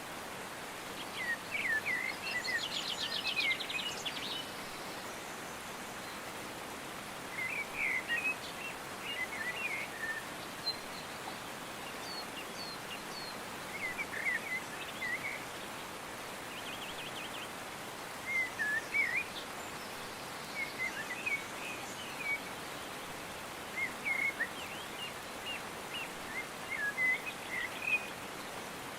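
Songbirds singing short phrases of quick chirps and whistles every few seconds, one with a fast trill near the start, over a steady hiss.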